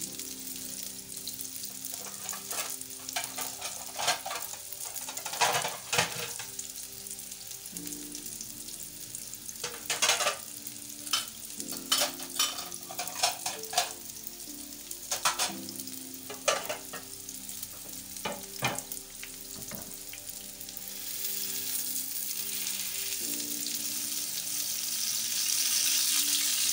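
Minced-meat galawat kebab patties frying in shallow oil in a non-stick pan: a steady sizzle with scattered sharp pops and crackles of spitting oil. The sizzle grows louder over the last few seconds.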